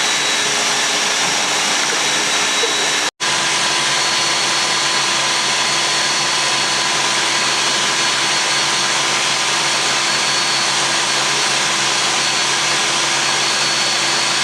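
Food processor motor running steadily at full speed, grinding dry oats into a fine powder, with a momentary break about three seconds in.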